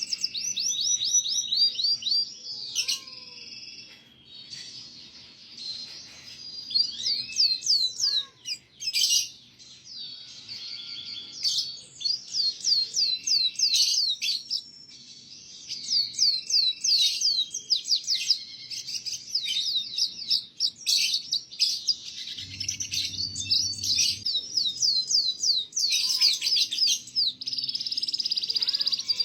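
Domestic canary singing a long, vigorous song of rapid high trills and quick repeated chirps, with only short pauses, used as tutor song for young canaries. A brief low rumble comes about three-quarters of the way through.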